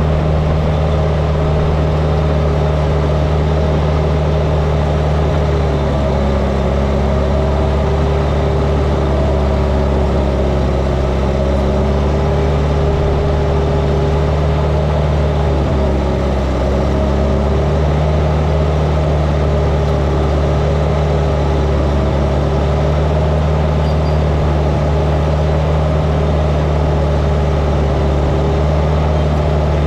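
Diesel engine of heavy earthmoving equipment running steadily under work, its pitch dipping slightly a few times.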